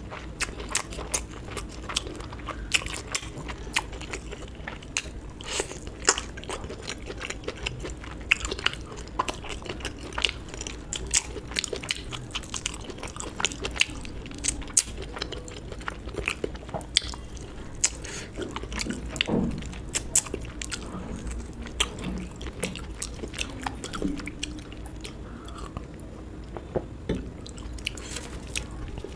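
A person eating close to the microphone: chewing and biting, with many sharp, irregular crunches and mouth clicks.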